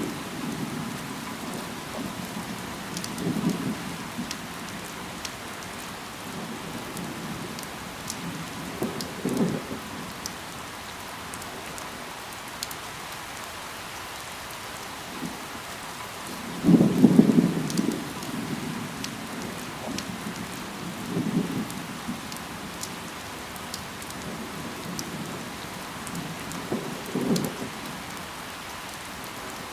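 Steady rain falling, a constant hiss with scattered sharp drop ticks. Short low rumbles swell up every few seconds, the loudest about 17 s in.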